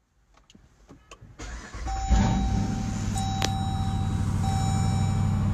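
Vehicle engine starting about two seconds in, then running at a steady idle, with an intermittent electronic chime tone sounding over it.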